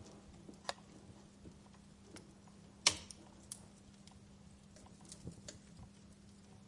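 Wood fire crackling: scattered sharp pops and snaps at uneven intervals, the loudest about three seconds in, over a faint steady low hum.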